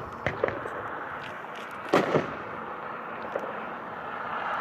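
Aerial shots from a consumer 1.4G firework cake, an 8-shot 200-gram repeater, bursting overhead. There are sharp bangs in two close pairs, one just after the start and one about two seconds in, each with a short echo, and fainter pops between them.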